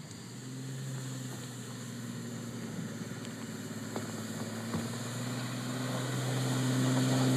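Truck engine running with a steady low drone that grows gradually louder, its pitch holding nearly even.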